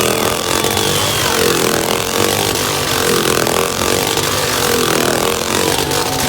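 Motorcycle engine running inside a steel globe of death, its pitch rising and falling over and over, about once a second, as the bike circles the sphere.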